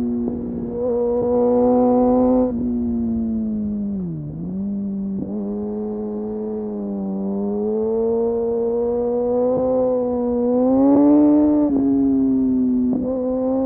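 Kawasaki Ninja motorcycle engine through an Arrow exhaust with no dB killer, running under way at fairly steady revs. The note dips sharply about four seconds in, then climbs slowly and falls again near the end, with a few brief cuts in the note along the way.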